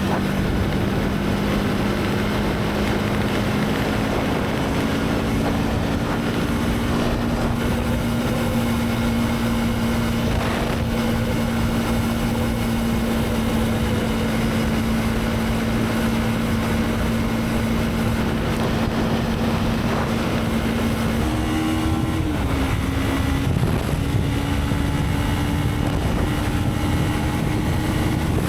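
Motorcycle engine running at a steady cruise with wind rushing over the microphone. The engine note climbs slightly, then steps up to higher revs about three-quarters of the way through.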